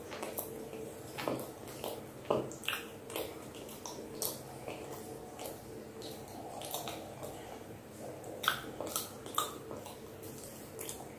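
Close-miked mouth sounds of soft cooked purple sweet potato being chewed: wet smacks and clicks of lips and tongue, scattered irregularly, a few louder ones standing out, over a faint steady hum.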